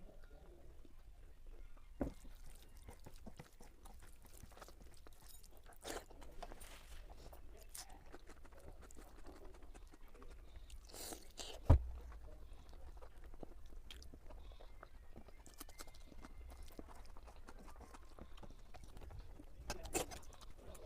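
Chewing and eating sounds from a meal of egg curry and rice, with scattered small clicks and smacks. One sharp knock about twelve seconds in is the loudest sound.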